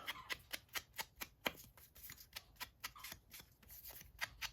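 Paper ephemera having its corners rounded: a quick run of small crisp clicks and snips, about four or five a second.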